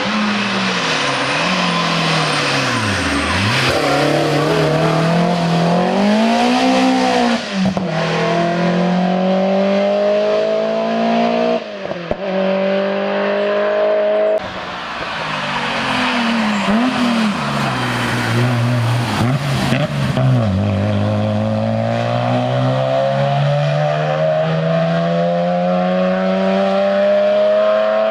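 Racing car engines at hard throttle, revving up and dropping back over and over through gear changes. About halfway through, the sound cuts abruptly to a second car doing the same.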